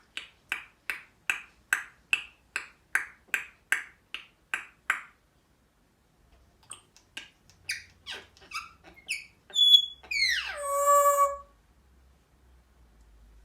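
African grey parrot making a rapid run of short squeaky clicks, about three a second for five seconds. Then come a few scattered chirps and a loud whistle that falls steeply in pitch.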